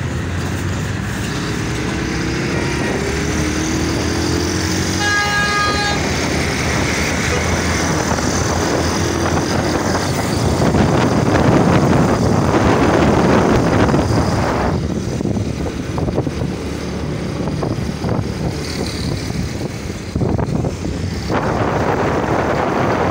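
Motorcycle ride through town traffic: a steady engine hum with road and wind noise. A vehicle horn sounds once for about a second, about five seconds in, and a rush of traffic and wind noise swells near the middle.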